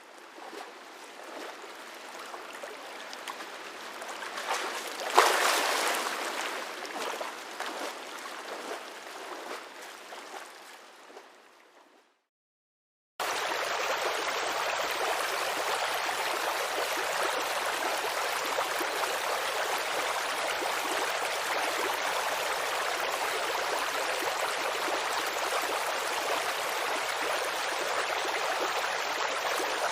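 Running water. A first stretch of flowing water swells and fades out over about twelve seconds. After a moment of silence, a steady, even rush of a stream starts and holds.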